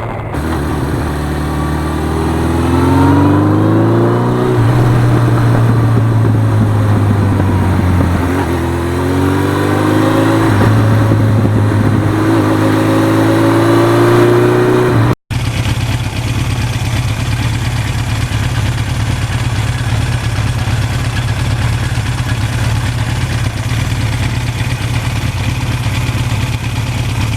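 1982 Suzuki GS1100E's inline-four engine accelerating up through the gears, its pitch rising and dropping back at each of several shifts. After a cut about 15 seconds in, it runs steadily at cruising speed under a rushing noise of wind.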